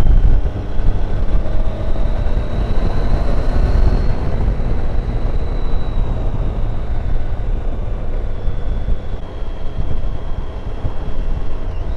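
Triumph Tiger 800's three-cylinder engine running under way, with steady wind and road noise.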